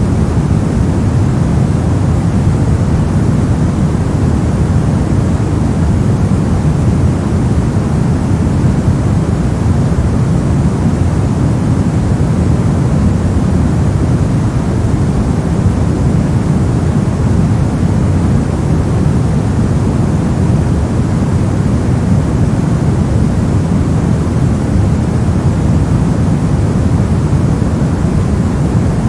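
Steady, unbroken white noise for sleep or focus, a constant rushing hiss weighted toward the deep end, with no changes or events.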